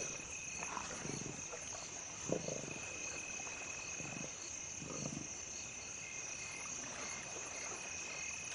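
Night chorus of crickets or similar insects giving a steady high trill, with a few short, low animal calls about two, four and five seconds in.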